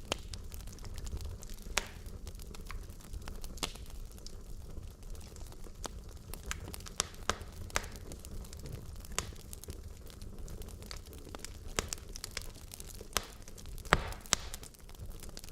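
Wood logs burning in a fireplace: irregular sharp crackles and pops over a low steady rumble of flame, with one louder pop near the end.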